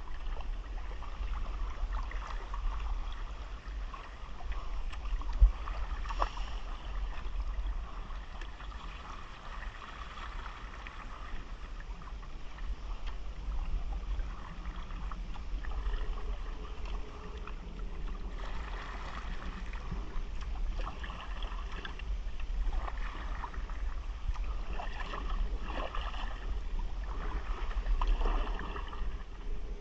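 Kayak paddling: paddle blades dipping and splashing in the water at an irregular pace, over a steady low rumble, with one sharp knock about five seconds in.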